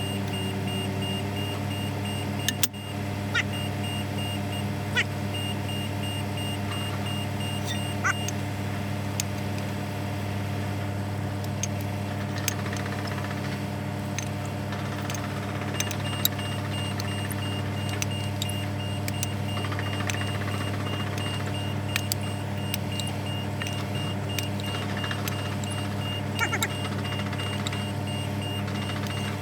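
A machine runs steadily with a low, even hum, under scattered sharp metallic clicks and knocks. A rapid, repeating high electronic beep sounds for the first eight seconds or so, stops, and starts again about halfway through.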